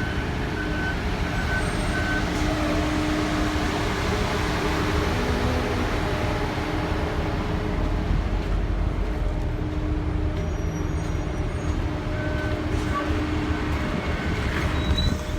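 2019 Blue Bird All American school bus engine running steadily at low speed. Its back-up alarm beeps in short repeated pulses for the first couple of seconds, then faintly again about twelve seconds in.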